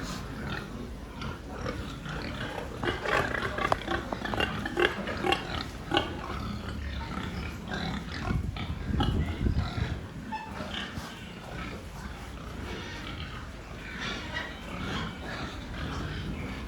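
Pigs grunting and squealing as they are driven onto a livestock truck for shipment, with scattered knocks and clatter throughout.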